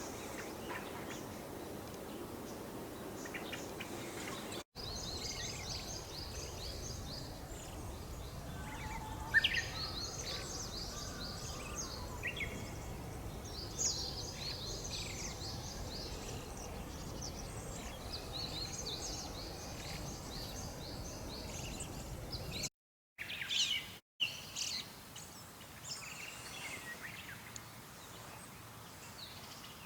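Wild songbirds calling and singing in short, high, repeated phrases over a low background rumble, with abrupt cuts between separate field recordings about 5 s in and again after about 23 s.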